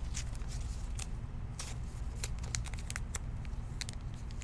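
Trading cards being handled on a table: a scatter of light, irregular clicks and ticks as cards and packaging are moved, over a steady low hum.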